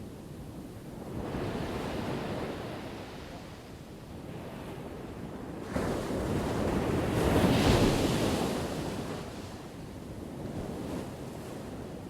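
Ocean waves breaking on a shore: a smaller wave about a second in, then a larger one crashing in suddenly near the middle, swelling to its loudest and washing back out.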